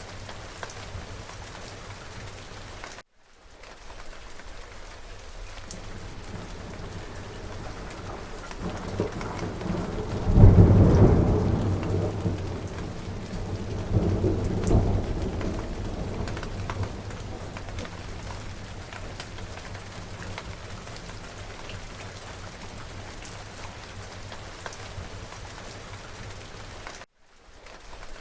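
Steady rain falling, with a rumble of thunder that builds about a third of the way in, peaks sharply, swells again a few seconds later and fades away. The rain cuts out for a split second twice, near the start and near the end.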